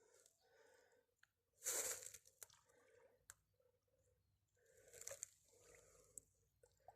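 Near silence, with a brief faint rustle about two seconds in, another around five seconds, and a few faint clicks.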